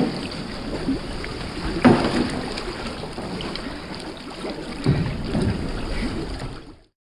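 Water splashing and sloshing around a kayak, with a louder splash about two seconds in and another about five seconds in. The sound cuts off abruptly near the end.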